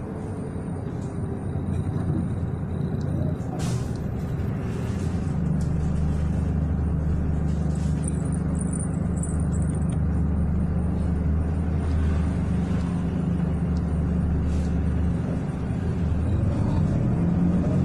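City bus driving, heard from inside the cabin: a steady low rumble of engine and road noise, with a single sharp click about four seconds in and a change in the engine note near the end.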